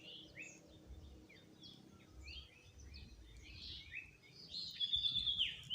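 Birds chirping: many short falling chirps, with a longer held whistled note near the end.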